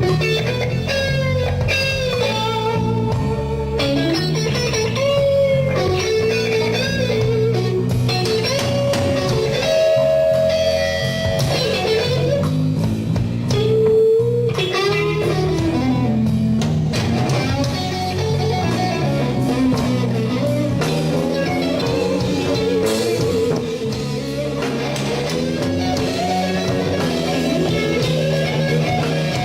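Instrumental stretch of a slow blues: an electric guitar plays lead lines with bent, sliding and held notes over bass guitar.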